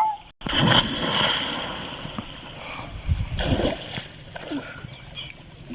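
People jumping into a deep pond: a large splash about half a second in with churning water fading after it, and a second splash about three seconds in, with brief faint shouts.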